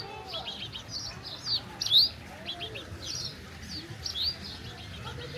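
Birds chirping: a busy string of short, high calls, several a second, many of them quick rising notes, loudest about two seconds in.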